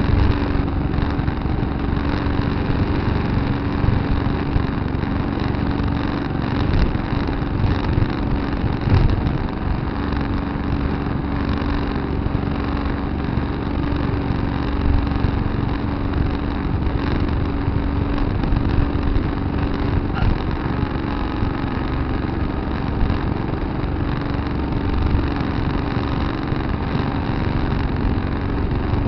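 Tractor engine running steadily, a constant hum with a low rumble and no change in speed.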